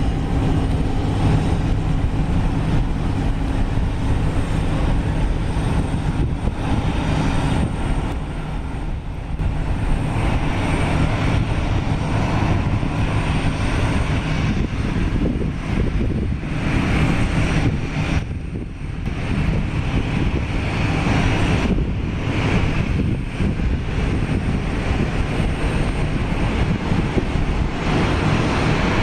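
Boeing 737-800's CFM56-7B jet engines running at taxi power: a steady rush with a thin, high, steady whine, briefly quieter about two-thirds of the way through.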